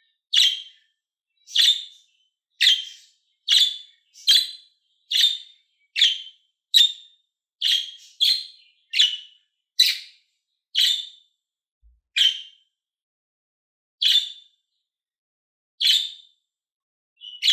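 Budgerigar chirping: short, sharp single calls repeated about once a second, coming further apart near the end.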